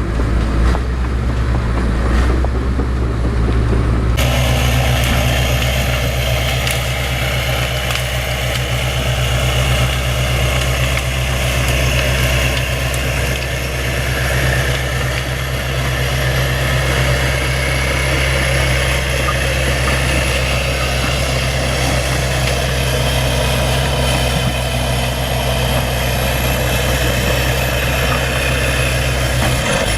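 Bulldozer's diesel engine running steadily, with an abrupt change in the sound about four seconds in.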